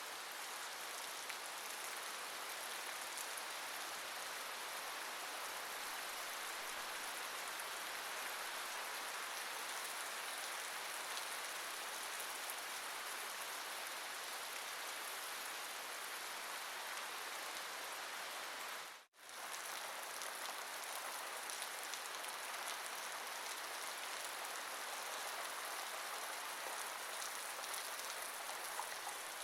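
Steady rain falling, an even hiss of many drops on a surface, which cuts out for an instant about two-thirds of the way through and then resumes.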